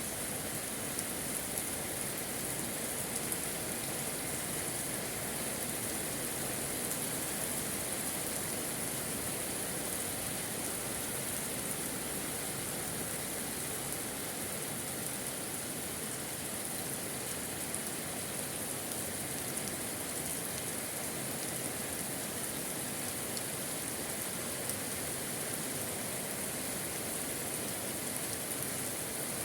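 Steady moderate rain falling, drops hitting surfaces in an even hiss.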